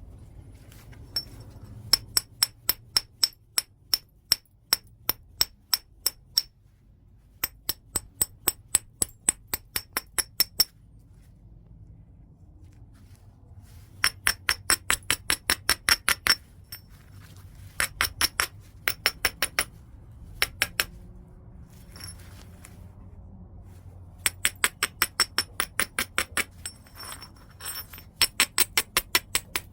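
White chert being struck in flintknapping: runs of rapid, sharp, glassy clicking taps, about three to five a second, each run a few seconds long with short pauses between.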